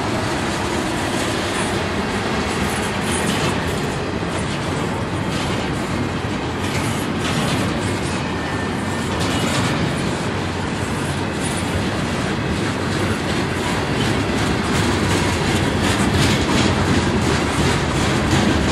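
Freight cars of a mixed manifest train rolling past. Steel wheels on rail make a steady rumble, with a continual run of clicks and clacks as the wheels pass over the track. It grows slightly louder near the end.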